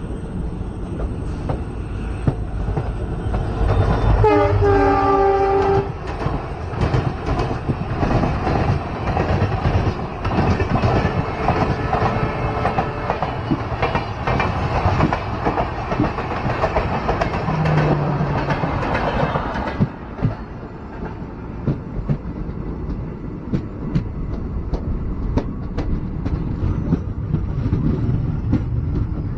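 Train running on the rails, its horn sounding once for about a second and a half about four seconds in. The running noise is louder through the first two-thirds, then eases into a clatter of wheels over rail joints.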